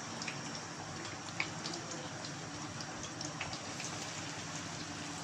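Battered chicken fritters sizzling as they deep-fry in hot oil: a steady hiss with many small pops and crackles scattered through it.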